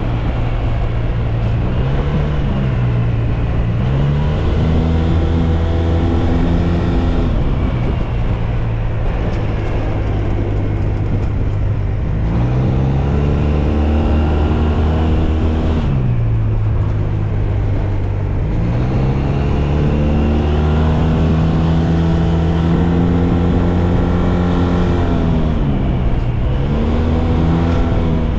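SYM Maxsym TL 508 maxi-scooter's parallel-twin engine under way, its pitch falling as it slows and rising again as it accelerates, several times, holding steady in between.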